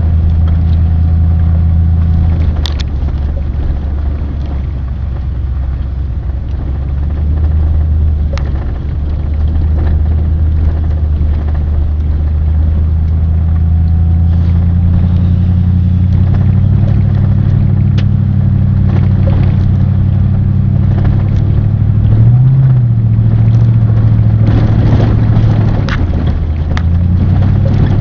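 Car engine and road noise heard while driving, the engine's low hum shifting in pitch several times, with a few short clicks.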